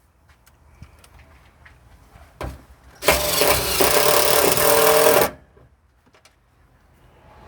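A power driver running a self-tapping screw into aluminum sheet for about two seconds, starting about three seconds in, with small clicks and taps of handling before it.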